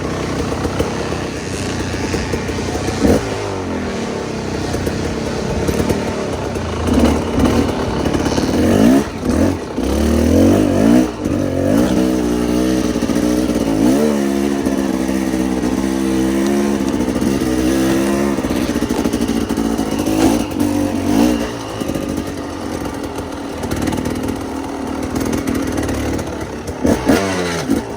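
Dirt bike engine running and revving while being ridden, its pitch repeatedly rising and falling with the throttle, holding steadier through the middle stretch.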